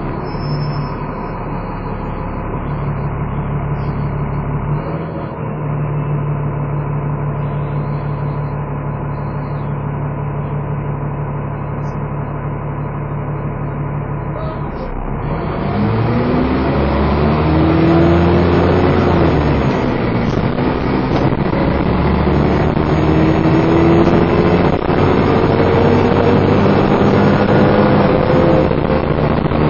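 Dennis Trident 2 double-decker bus engine heard from on board, running steadily for about fifteen seconds, then pulling hard with a louder run of rising whines that climb again and again as it changes up. Its vacuum-cleaner-like whine, called 'hoovering', sounds under the engine as it is thrashed.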